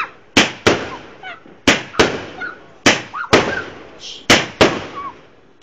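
A large multi-shot firework going off: about ten loud, sharp bangs in quick, uneven succession, each followed by a short fading echo.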